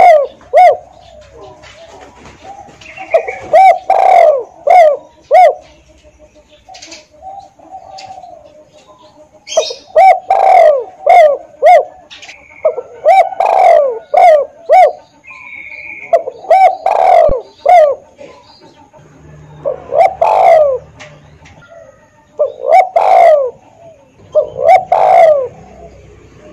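Spotted dove cooing: loud phrases of several short coos, repeated every two to three seconds, with a gap of a few seconds after the first phrases. Faint chirps of small birds sound between phrases.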